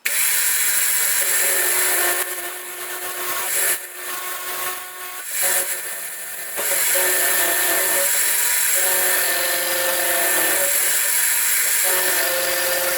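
Milling machine spindle driving a 1/2-inch end mill through a heavy cut in a block: a loud, continuous cutting noise with several steady tones in it. It eases off for a few seconds from about two seconds in, then comes back to full level.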